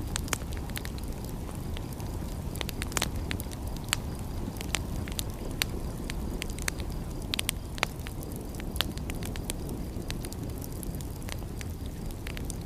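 Fireplace fire crackling, with irregular sharp pops scattered over a steady low rumble.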